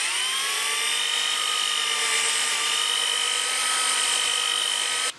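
Electric drill with a mixing paddle stirring mortar for aerated-concrete blocks. The motor whine rises as it spins up, runs at a steady speed, and cuts off suddenly near the end.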